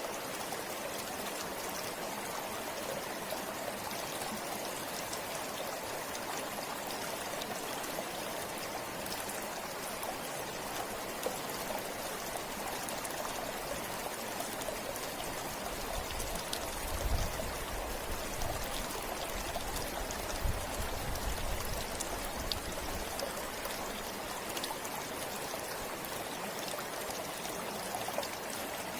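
River water flowing steadily over rocks, an even rushing wash. A low rumble comes in for a few seconds past the middle.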